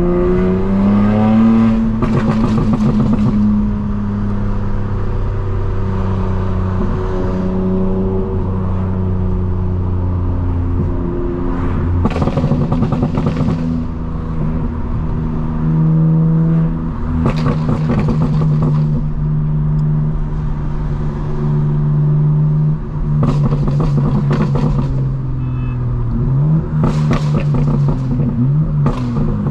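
Straight-piped BMW M4 Competition's twin-turbo inline-six driving in traffic, its pitch rising and falling as it accelerates and eases off, with several brief louder raspy bursts.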